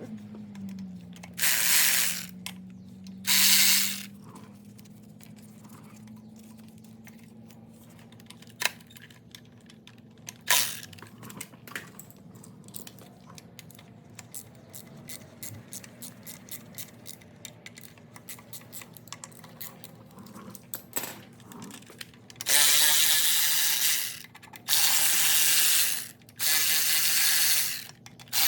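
Ratchet wrench turning out water-pump bolts: two short runs of ratcheting near the start, a few sharp tool clicks in the middle, then four longer runs of ratcheting of about a second and a half each near the end. A steady low hum runs underneath.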